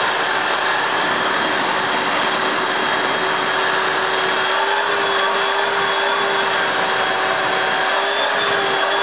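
Vacuum cleaner running steadily, an even rushing noise with a steady motor whine that wavers slightly in pitch now and then.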